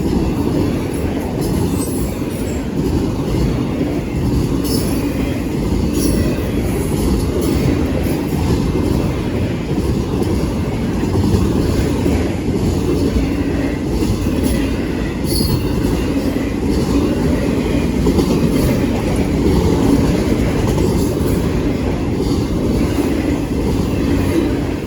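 Freight train rolling past: a steady, loud rumble of cars on the rails, with a few brief, high wheel squeals.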